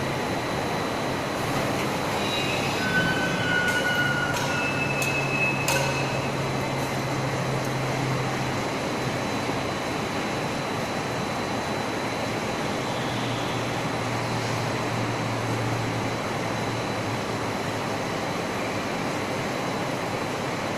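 Steady loud whooshing and rumbling of a flat convection glass tempering furnace line running, with a low hum, plus a few brief high squeals and sharp clicks about two to six seconds in.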